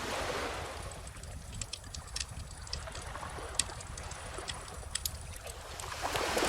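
Bonfire crackling with scattered sharp pops, over calm ocean waves washing in: one wave fading at the start and another building near the end.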